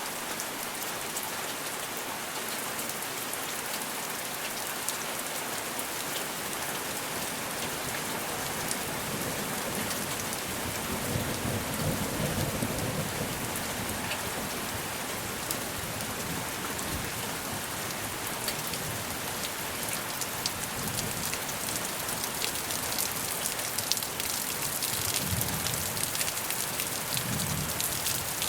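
Steady rain falling, with low rumbles of thunder about the middle and again near the end.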